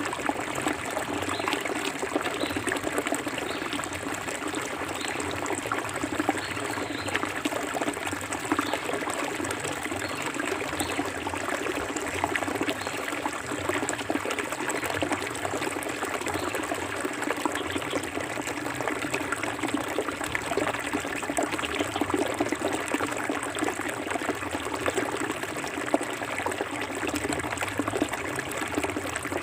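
Clear forest river flowing and trickling steadily over stones, with many small splashes.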